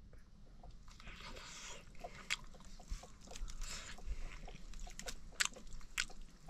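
Someone chewing and crunching food, a string of short crisp clicks and crunches.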